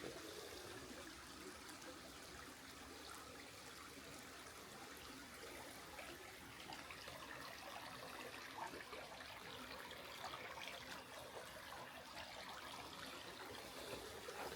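Faint, steady trickle of a small creek running low over its bed.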